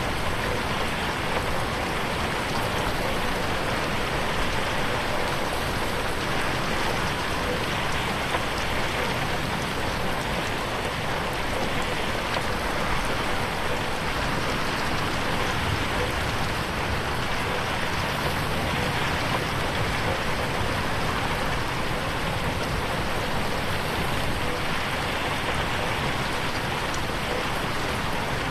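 Steady rain on a window pane: an even, unbroken hiss of drops with faint scattered ticks and no change in strength.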